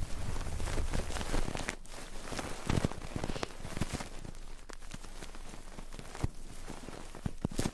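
Close-miked ASMR ear-cleaning and ear-rubbing sounds on a microphone: irregular scratching and rubbing, broken by sharp clicks and crackles.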